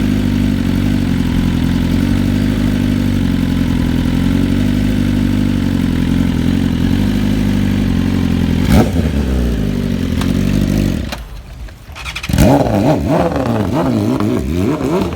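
BMW S1000RR inline-four engine running through an SC-Project exhaust, idling steadily. Near the middle there is a sharp pop. The sound then drops away for about a second and comes back with the revs quickly rising and falling.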